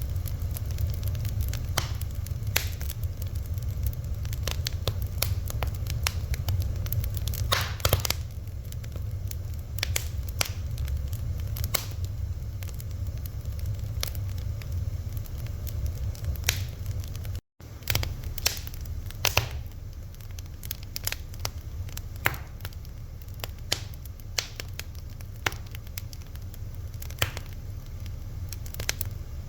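Wood fire crackling: irregular sharp pops and snaps over a low steady rumble, broken once by a very brief gap of silence a little past halfway.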